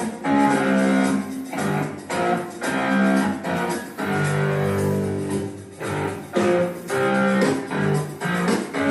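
Guitar music: a riff of held chords played in short, repeated phrases with brief gaps between them.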